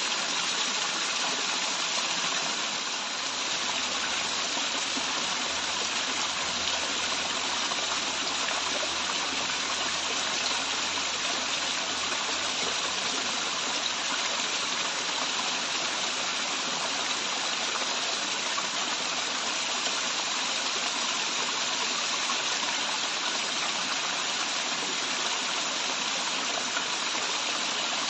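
Waterfall: water pouring and splashing in a steady, even rush, strongest in the upper range.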